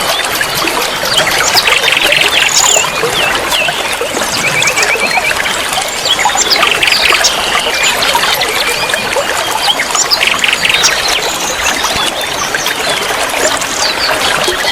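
Many small songbirds chirping and whistling, with several rapid trills, over a steady trickle of water.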